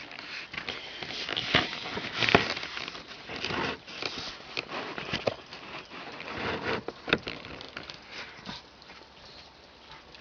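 Rainwater dripping off a roof and splashing: an irregular patter of splashes over a steady hiss, with louder spatters about two seconds in and again near seven seconds.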